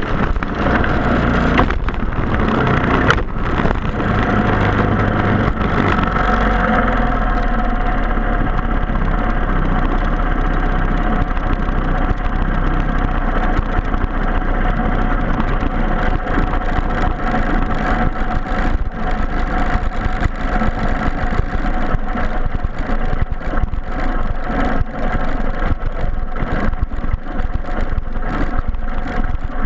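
Briggs & Stratton Animal single-cylinder four-stroke kart engine running continuously under load, its pitch holding fairly steady.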